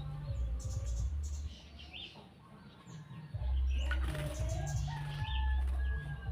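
A cucak jenggot (grey-cheeked bulbul) flutters its wings while being bathed and gives short chirps, over a low hum that comes and goes.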